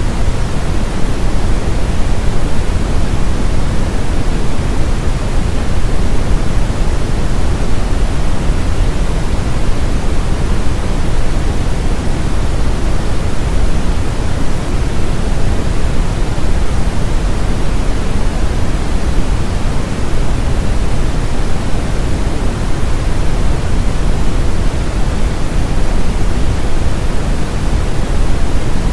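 Steady synthetic brown noise, a deep even hiss with most of its weight in the low end, used for masking tinnitus.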